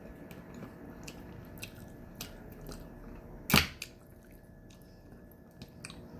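Quiet chewing with small scattered mouth clicks and one sharp click about three and a half seconds in.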